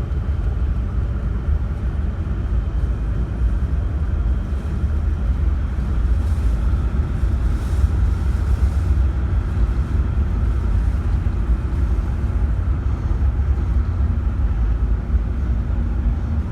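The ferry Osprey 2000 under way, a steady low rumble from its engines and hull.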